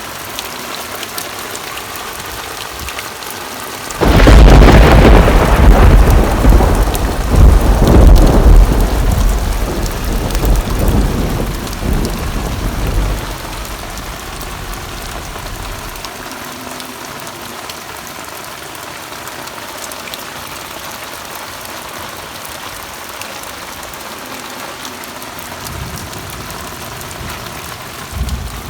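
Steady rain with a loud clap of thunder about four seconds in, its low rumble rolling on and dying away over the following ten seconds or so.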